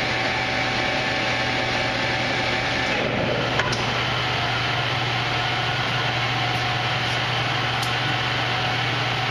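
Victor engine lathe running with its spindle at 424 RPM: a steady gear-train and motor noise with a hum and a gear whine that steps slightly lower in pitch about three seconds in.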